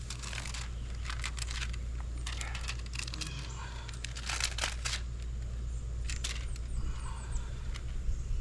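Several short bursts of scraping and crinkling handling noise over a steady low hum.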